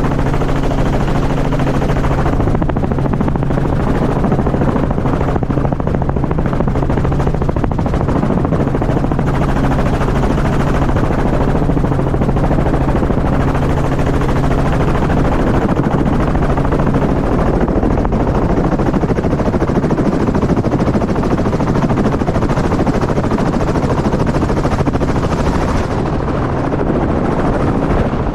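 Helicopter running loud and steady, its rotor and engine noise filling the sound, with a low steady hum that drops away about 17 seconds in.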